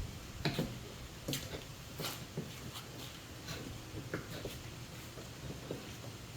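Scattered light clicks and knocks from hand work with tools and materials, irregular, over a low steady background hum.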